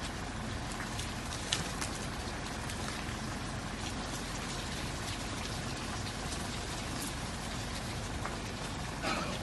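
Steady patter of rain with scattered sharper drip ticks, and a brief louder noise near the end.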